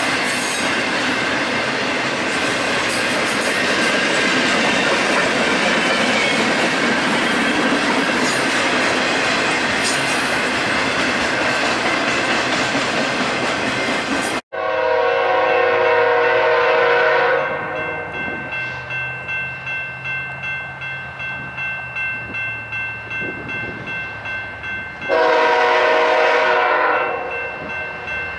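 A freight train rolling past close by, a loud steady rush of wheels on rail. After an abrupt cut about halfway, a diesel locomotive's air horn sounds two long blasts several seconds apart. Between the blasts, wheels clack over rail joints at about two a second.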